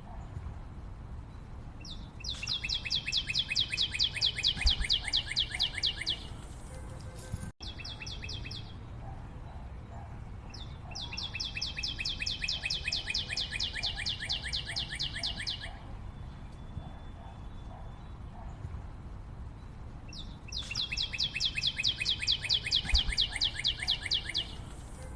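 A forest bird calling: a rapid, even run of high notes lasting about four seconds, given three times with pauses between, over faint forest background.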